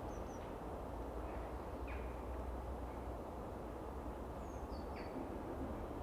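Small birds chirping, a few short high chirps and brief falling calls, over a steady low background hum.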